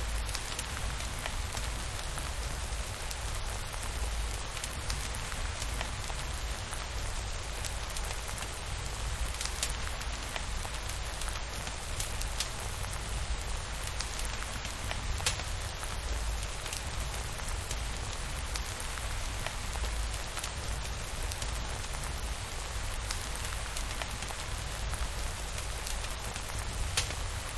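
Steady rain falling, a continuous hiss with a low rumble underneath and scattered sharp ticks.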